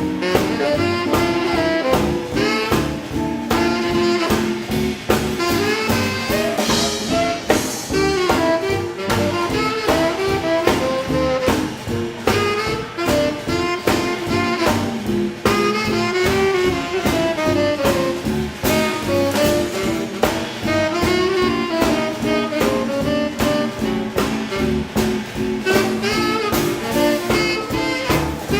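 Live swing band playing an instrumental passage: a saxophone carries the melody over bass and a steady drum beat.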